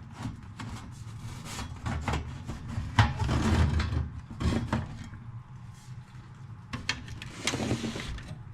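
Scattered knocks and clicks, with metal scraping for about a second or two around the middle and again near the end, as the sheet-metal cover of an old Koss stereo receiver is handled and slid off its chassis.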